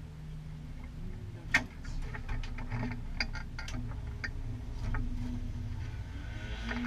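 Car engine idling with a steady low hum, with a dozen or so light clicks and taps scattered over it.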